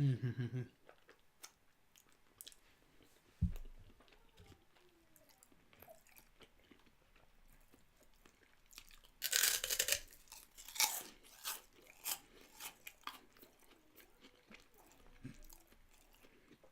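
Close-up chewing and crunching of crisp fried fryums, a sharp crunch about nine seconds in followed by a run of crackling bites, with a brief 'mm' at the start.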